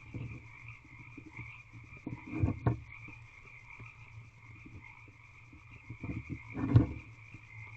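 A chorus of frogs calling steadily, with scuffs and thumps against the wooden owl box as the barn owl works at its prey. The loudest thumps come about two and a half seconds in and again near the end.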